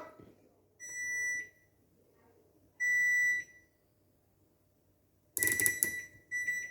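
Tor Space Pro washing machine's electronic beeper sounding the end of the cycle: a steady high beep lasting most of a second about a second in, and another about two seconds later. Near the end comes a short rattling clatter mixed with more beeps.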